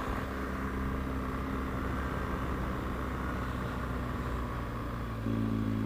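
Motorcycle engine running steadily while riding along an open road. About five seconds in, the engine note steps up in pitch and gets louder as the throttle is opened.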